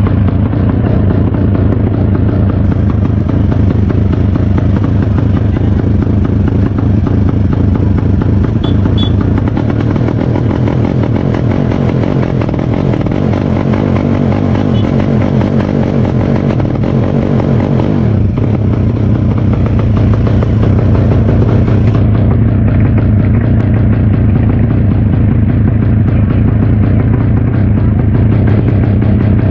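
Drag-race motorcycle engines running steadily and loudly, close by.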